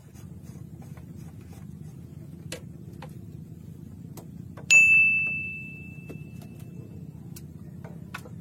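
A single bright metallic ding a little past halfway, like a small bell struck once, ringing out for about two seconds over a steady low rumble and a few faint clicks.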